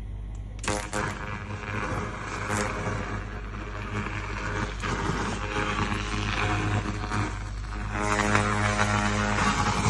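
Handheld pulsed fiber laser cleaner ablating engine oil off metal: a continuous crackling hiss that starts under a second in, over the steady hum of the machine.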